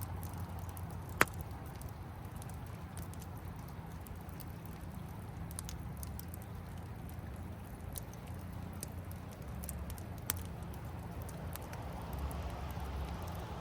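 Wood campfire crackling with scattered small snaps and two louder pops, one about a second in and one about ten seconds in, over a steady low rushing of the river.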